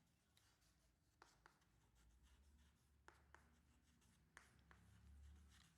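Near silence, with a few faint ticks of a pen or marker writing.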